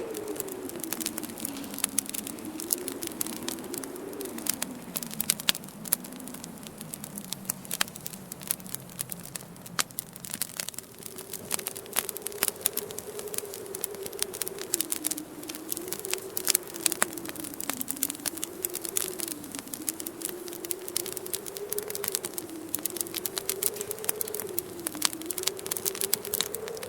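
Wood fire crackling with many sharp pops, over a low moaning wind whose pitch wavers up and down, dipping and fading about halfway through before rising again.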